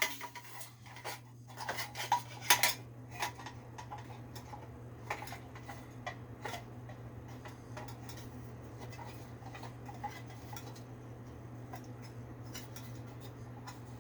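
Light metallic clicks and clinks of small metal parts and wire connectors being handled while wiring a window air conditioner. The clicks are busiest in the first few seconds and sparser after, over a steady low hum.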